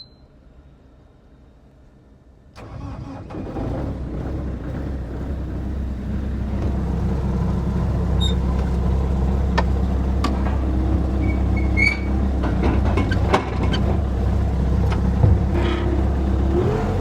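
Bobcat skid-steer loader's engine starting about two and a half seconds in, then running steadily and getting a little louder over the next few seconds. Scattered clicks and knocks sound over it.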